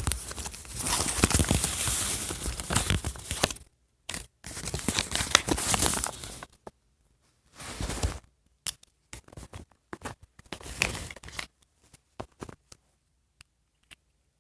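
Packaging being torn and crinkled by hand: a long run of dense tearing and rustling, two more bursts a few seconds later, then scattered small clicks and rustles.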